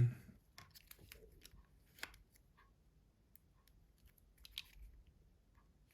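Faint scattered clicks and light plastic scrapes from handling a reassembled Nokia C2-06 slider phone, its slide worked open and shut to check for play.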